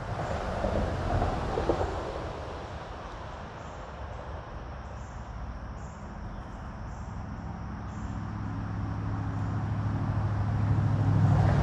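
A low, steady engine hum comes in during the second half and grows steadily louder, like a motor approaching, over a faint outdoor background.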